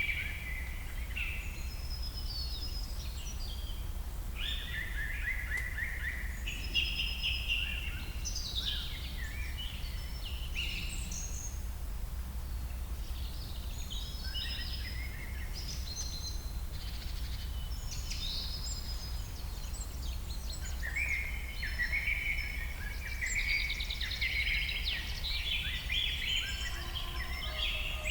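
Several songbirds singing in a forest, their short chirping and warbling phrases overlapping, busiest in the last third, over a steady low rumble.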